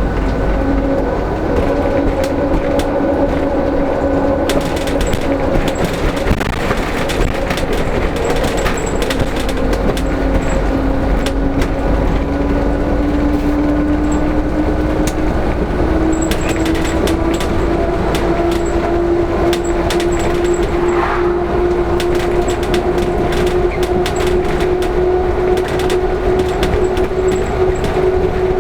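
LiAZ-5292.65 bus under way, heard from inside: steady engine and road rumble with a drivetrain whine that slowly rises in pitch as the bus gathers speed. Many small clicks and rattles run through it.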